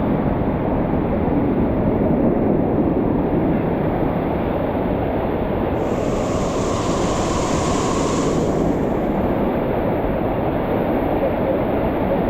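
Steady rushing of a waterfall and stream water. About six seconds in, a higher hiss joins for roughly three seconds.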